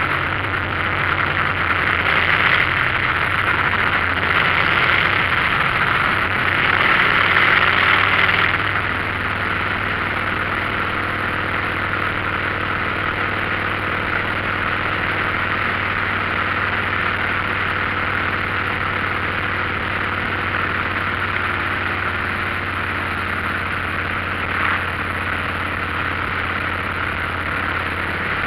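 Motorcycle engine running steadily under a rushing hiss, louder for about the first eight seconds and then settling to an even level.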